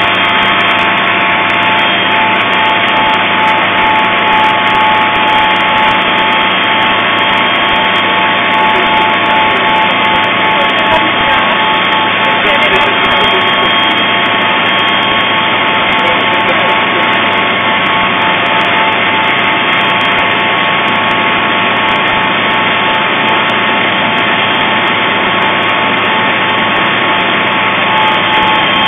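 Helicopter cabin noise in flight: a loud, steady engine and rotor drone with several steady whining tones running through it.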